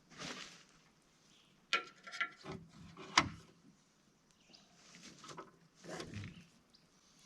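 Handling noises while fitting a truck-bed tent: rustling, then a few sharp clicks and knocks, the loudest about three seconds in.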